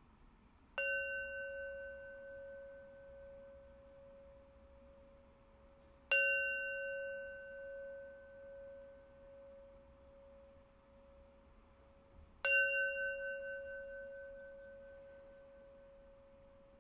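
A meditation bell struck three times, about six seconds apart, each stroke ringing on and fading slowly; the three rings mark the close of the meditation practice.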